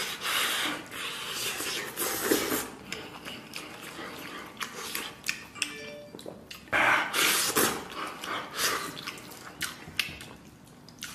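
Chewing and biting into soft braised pork knuckle skin and meat, in irregular bursts.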